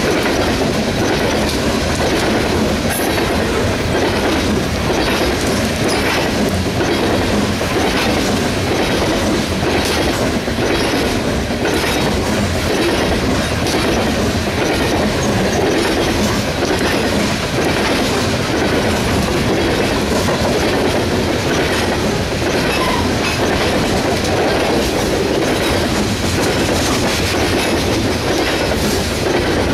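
Coal train hopper cars rolling past close by: a loud, steady rumble of steel wheels on the rails with an uneven clickety-clack.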